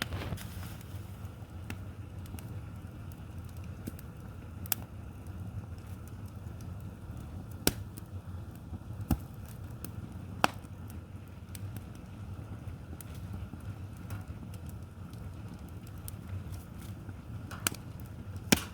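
Wood fire crackling: sharp, isolated pops from the burning logs every few seconds over a steady low rumble, with two pops close together near the end.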